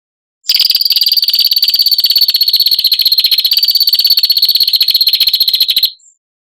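A songbird's harsh, rapid buzzing trill, a 'besetan' call of the kind used for masteran training. It comes in at a steady high pitch about half a second in, runs for about five seconds and then cuts off sharply, followed by a brief faint chip.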